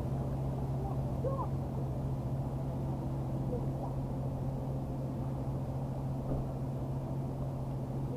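Steady low hum of an idling engine, with a few faint distant calls or voices over it.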